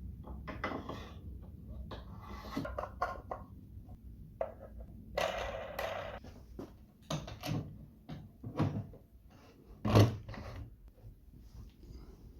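Irregular knocks, clatters and short scrapes of wood and metal parts being handled on a workbench, with one sharp loud knock near the end; the grinder is not running.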